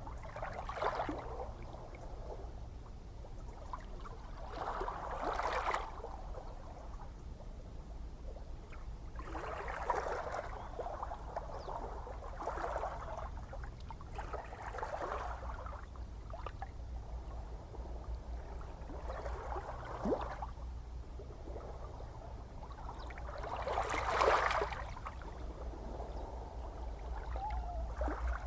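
Gentle ocean waves lapping, small splashing washes every few seconds over a steady low rumble of the sea, one larger splash toward the end.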